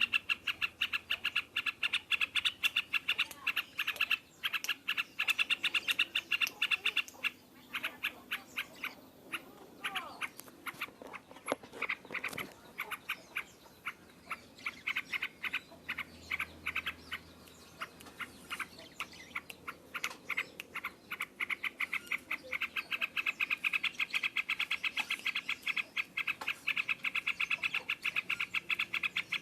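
Yellow-vented bulbul (trucukan) singing loud, in rapid runs of closely packed chattering notes. The runs are dense for the first several seconds and again over the last several seconds, with sparser notes in between.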